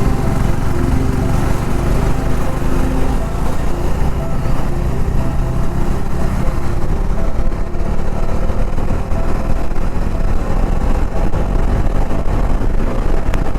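Motorcycle engine running steadily while riding, mixed with road noise.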